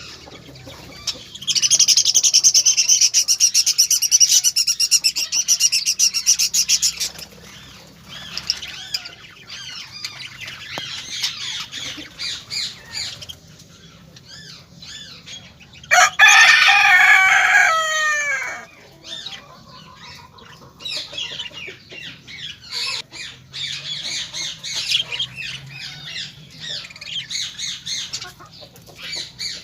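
Birds chattering and chirping, with a loud burst of dense, high chatter lasting several seconds near the start. About sixteen seconds in, a rooster crows once, a call of about two and a half seconds that falls in pitch at the end.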